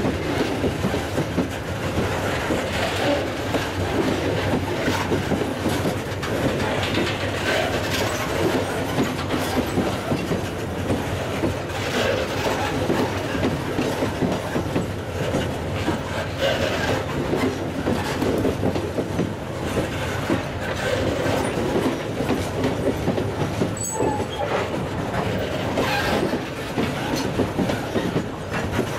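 Freight train of open-top steel hopper wagons rolling past: a steady rumble of steel wheels on rail, with clicks as wheels cross rail joints.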